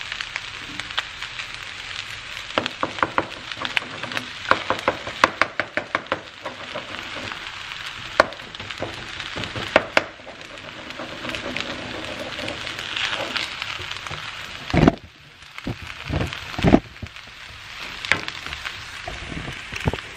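Fried rice and eggs sizzling in a wok while a wooden spatula scrapes and taps against the pan to scramble the eggs, with a run of quick rapping taps a few seconds in. A few low thumps come about three-quarters of the way through.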